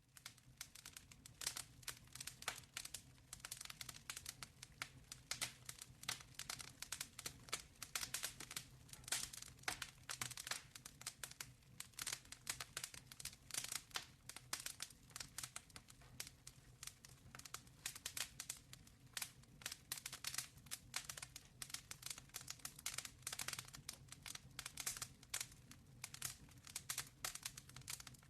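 Wood fire crackling in a fireplace: a dense, irregular run of small pops and snaps, with a faint steady low hum underneath.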